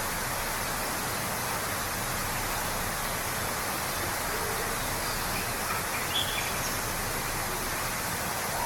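Waterfall rushing as a steady, even wash of noise, with a few faint bird calls about halfway through.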